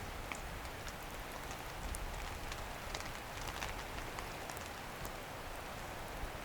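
Steady rain falling, with scattered drops ticking irregularly.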